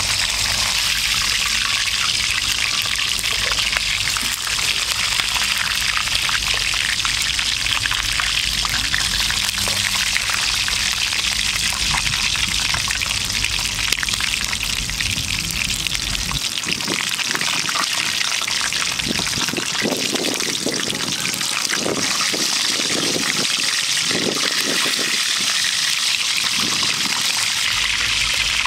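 Hot oil sizzling steadily in a skillet as a whole chicken fries, a continuous even hiss.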